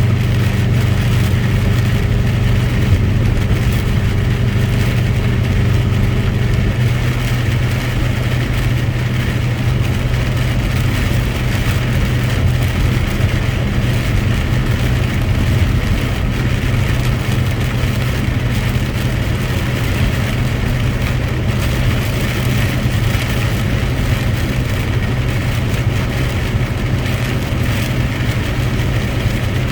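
Truck engine running steadily, a continuous low drone, with road noise; its note shifts slightly about seven seconds in.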